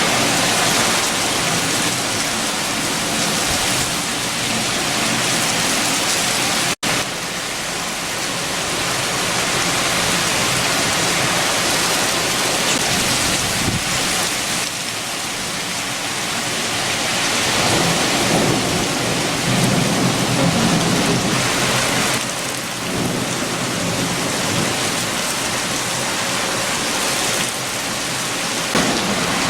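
Heavy rain with strong wind, a dense steady rush. A low rumble swells about twenty seconds in, and the whole sound drops out for an instant about seven seconds in.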